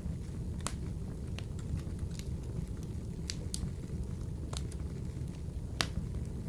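Wood fire burning in a wood-burning stove: a steady low rumble of the flames with scattered sharp crackles and pops, the loudest about six seconds in.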